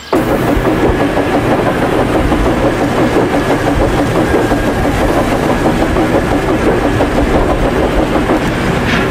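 Train running on rails, with a steady rumble and the clatter of wheels. It cuts in abruptly at the start.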